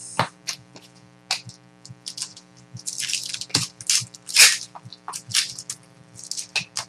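Trading-card pack wrappers crinkling and tearing and cards being flipped through by hand: a string of short crackles and rustles, the loudest a few seconds in, over a faint steady hum.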